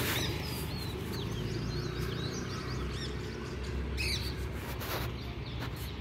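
Small birds chirping in the background: many short, high chirps that bend up and down in pitch, over a steady low rumble, with a few brief taps or clicks.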